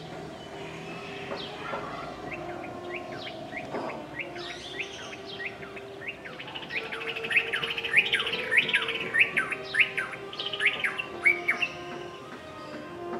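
Small birds chirping: many short, quick downward-sliding chirps that thicken into a dense, louder flurry around the middle of the stretch, over faint steady tones.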